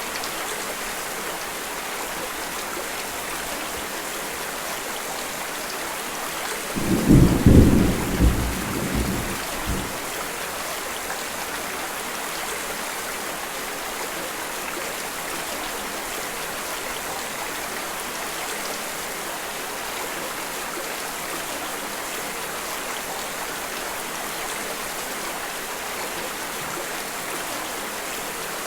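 Steady rain falling, with a deep rumble of thunder about seven seconds in that dies away over some three seconds.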